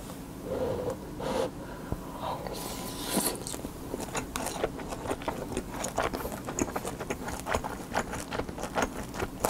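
Close-miked chewing of a mouthful of kimchi fried rice with a fried quail egg: wet mouth clicks and smacks, which come thick and fast from about three seconds in.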